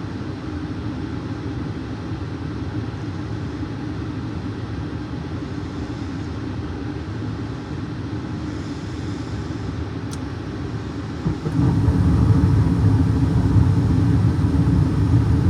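Carrier gas furnace starting up: a steady motor hum from the draft inducer, a single click about ten seconds in, then just after eleven seconds the burners light and a louder, steady low rumble of burner flame takes over. The flame sensor has just been cleaned to cure the furnace shutting down a few seconds after lighting.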